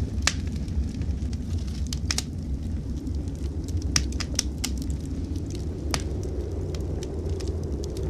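Wood fire crackling in a fireplace, with sharp pops every second or so, over a steady low rumble of blizzard wind.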